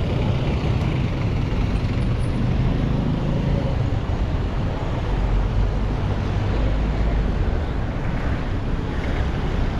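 Steady street noise of road traffic, a continuous low rumble with no distinct events.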